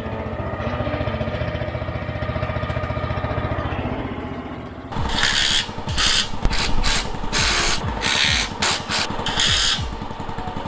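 Makita 40V cordless impact driver driving scaffold clamp bolts: a steady fast rattle for the first half, then about eight short, loud hammering bursts in quick succession as the trigger is pulsed.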